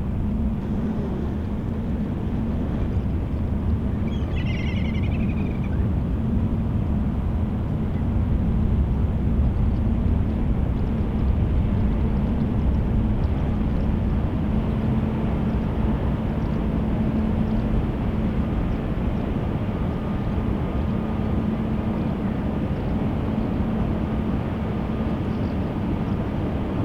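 Steady low rumble with a constant hum from the Viking Grace ferry's machinery, heard across the water. A short high call sounds briefly about four seconds in.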